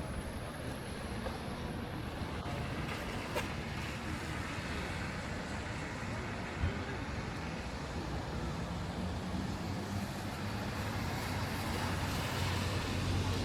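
Road traffic noise from passing vehicles. A low engine hum grows louder near the end as a vehicle comes closer, and there is one sharp knock just past halfway.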